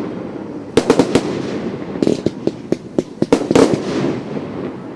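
Fireworks going off: a quick cluster of sharp bangs about a second in, then a faster string of bangs and crackles from about two seconds to nearly four seconds in, each dying away in a rumbling tail.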